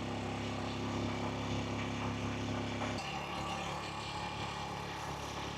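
Small motorbike engine, a Honda Blade 110 cc single-cylinder four-stroke, running steadily under way with road and wind noise. Its note changes suddenly about three seconds in.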